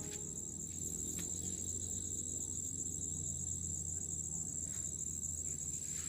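Insects chirring outdoors, a steady high-pitched drone with a low hum underneath.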